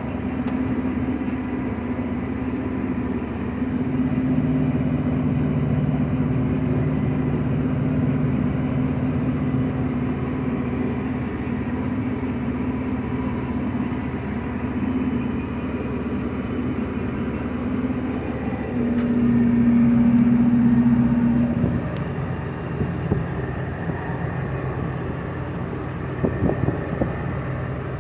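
Engine of a large diesel harvest machine running steadily at work. Its note swells louder for a couple of seconds about two-thirds of the way in, and a few light knocks sound near the end.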